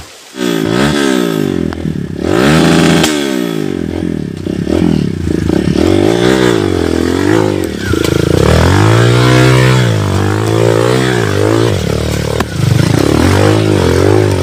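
Dirt-bike engine revving hard, its pitch rising and falling over and over as the throttle is opened and closed. It comes in suddenly about half a second in.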